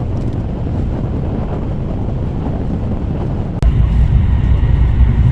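Steady low rumble of a moving vehicle, with wind buffeting the microphone. About three and a half seconds in it cuts abruptly to a louder, deeper rumble.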